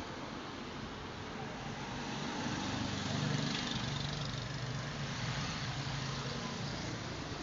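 A motor vehicle's engine running under a steady rushing noise, its low hum swelling slightly about three seconds in.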